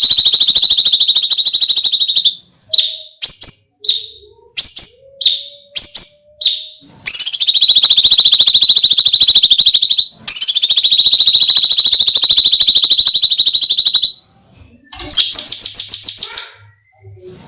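Cucak cungkok singing a screeching masteran song: long, fast-pulsed trills held at one high pitch for two to four seconds each. They are broken by a run of about eight short falling chirps early on and a quick burst of notes near the end.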